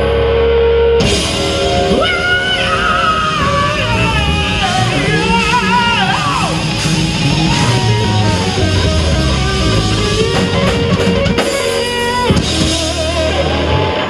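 Live heavy rock band playing with distorted electric guitar, bass, drums and a lead vocal. A held chord rings for about the first second, then the full band comes in with the singer, and the song stops at the very end.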